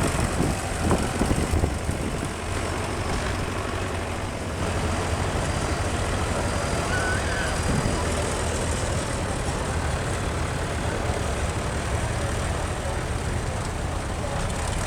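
Vintage tractor engine running steadily as it drives past.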